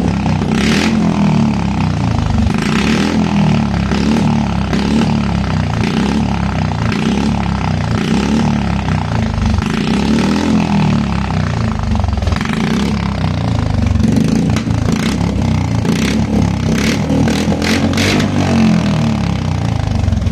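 Royal Enfield Classic 350's single-cylinder engine running with no exhaust silencer, very loud, revved in repeated short blips.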